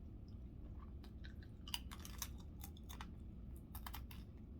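A person chewing food close to the microphone: a run of soft, irregular mouth clicks.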